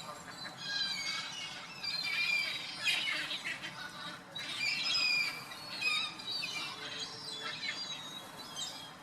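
A busy chorus of pond birds calling over each other: many short, high squawks and chirps overlapping, some sliding in pitch.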